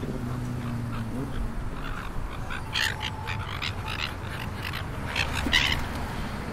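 Outdoor ambience: a steady low rumble with short bird calls, clustered about three seconds in and again, loudest, near the end.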